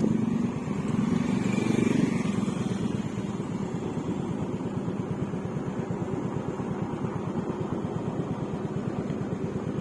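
Yamaha Mio Gravis scooter's single-cylinder engine running under way through an aftermarket Akrapovic exhaust with silencer. It is a little louder for the first two seconds or so, then holds steady.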